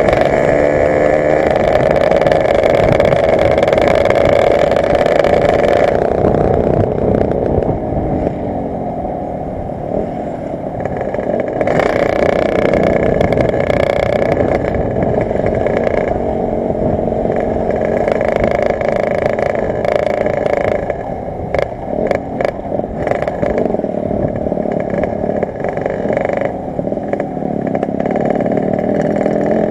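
Yamaha RX-King two-stroke single-cylinder engine running loud through an Altech C20RR aftermarket exhaust under riding load, the pitch rising and falling with throttle and gear changes. The revs drop away about six seconds in, climb again near twelve seconds, and turn choppier after about twenty seconds.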